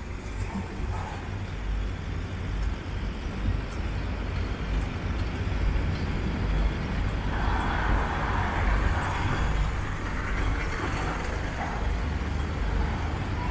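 Street traffic noise with a steady low rumble. A motor vehicle passes a little past halfway through, swelling and then fading.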